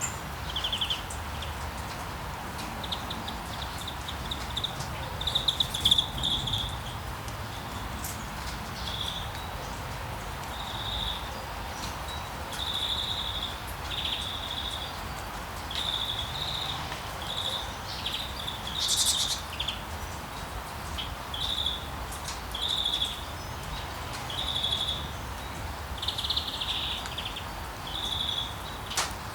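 Small birds chirping, short high calls repeated every second or two, over a steady wash of sea waves.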